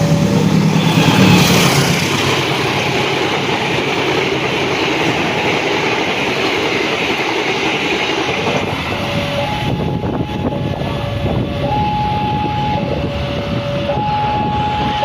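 Pasundan passenger train passing: the locomotive horn ends about a second in, then the coaches' wheels rumble and clatter over the rails with a high whine, dying down about ten seconds in. An alarm alternating between two tones, about a second each, rings behind it and is plainest near the end.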